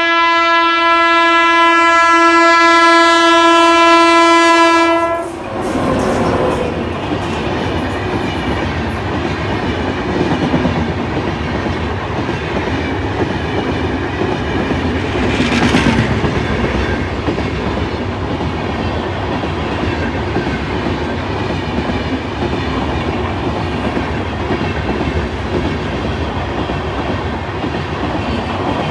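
Express train passing at speed: a long, steady locomotive horn blast for about five seconds, then the loud rumble and wheel clatter of the coaches running through.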